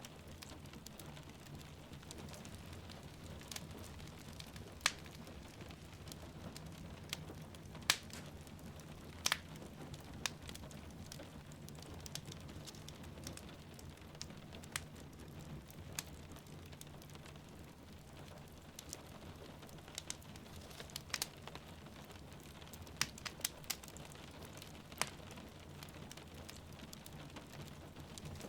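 Wood fire crackling, with irregular sharp pops and snaps, over a steady hiss of falling rain.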